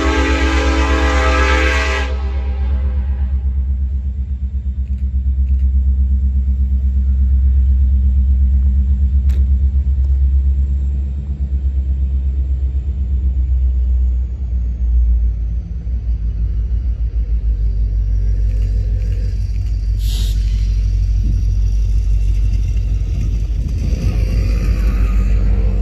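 Freight train locomotive horn sounding and cutting off about two seconds in, then the steady deep rumble of the BNSF train rolling past.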